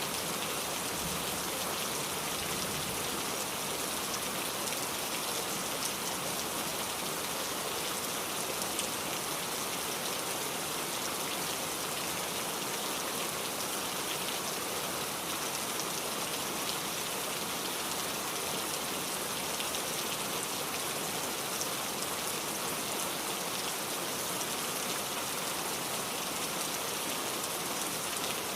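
Steady rain, falling evenly on a surface.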